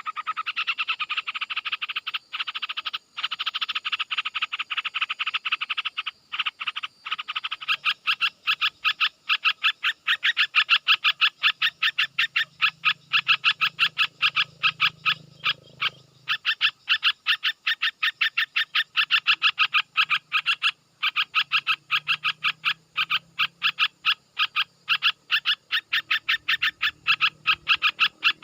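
An animal's call repeated as a fast, even train of short pulses, going on without a break; frog-like.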